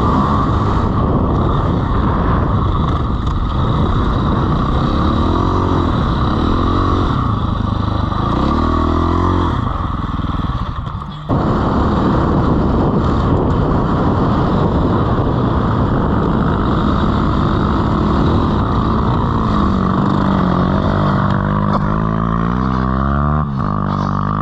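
Dirt bike engine revving up and down as it is ridden through soft sand, with steady wind noise on the microphone. The sound breaks off briefly a little past halfway, and the engine note falls away near the end.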